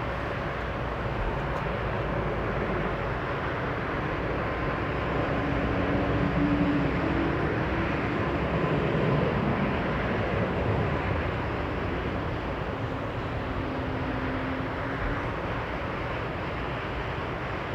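Jet airliner on final approach passing by: a steady rumble that swells about six to ten seconds in, with a faint engine whine.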